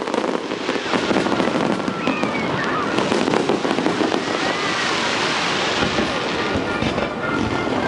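Fireworks going off in a dense, continuous crackle of many small pops and bangs.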